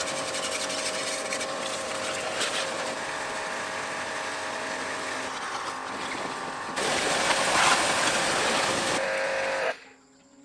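A machine running steadily, a loud hiss over a steady hum. It gets louder about two-thirds of the way in and cuts off suddenly near the end.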